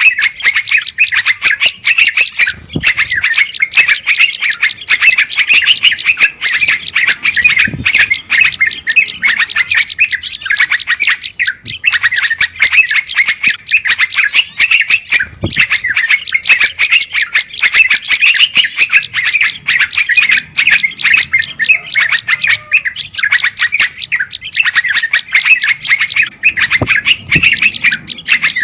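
Dense, unbroken chorus of small songbirds chattering and scolding all at once: a bird-lure recording of agitated birds, used to draw wild birds in.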